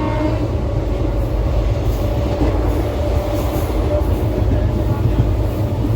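Passenger train running on the rails: a steady, loud rumble of the coaches and wheels on the track.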